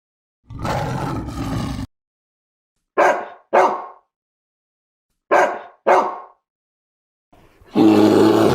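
Animal calls: a low, rough call, then two pairs of short sharp barks, then a louder call with a clear pitched tone starting near the end.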